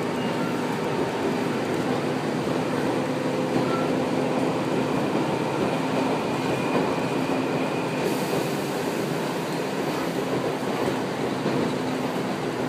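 Former Keio 3000-series electric train heard from inside the car while running: steady running noise of wheels on rail with a faint steady hum under it.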